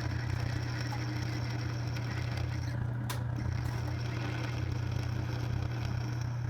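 Steady low machine hum, an electric motor running in the workshop, with a single faint click about three seconds in.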